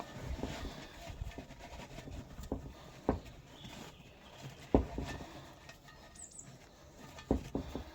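A few sharp knocks, about three seconds in, near five seconds and again past seven seconds, over light irregular clattering, with a brief high chirp a little after six seconds.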